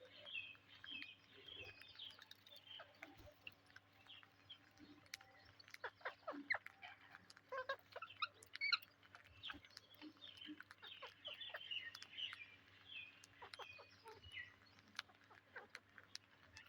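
Faint chattering of Psittacula parakeets: clusters of short, high chirps, with scattered sharp clicks, the loudest about nine seconds in.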